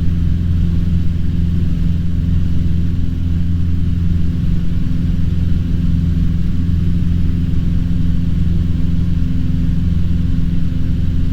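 Cessna 150's engine and propeller at full climb power, heard inside the cabin: a steady low drone with no change in pitch.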